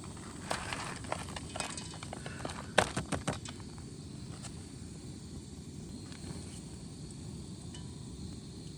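A pot of water boiling steadily, with a series of knocks and taps in the first three and a half seconds as pre-boiled rice is added to it.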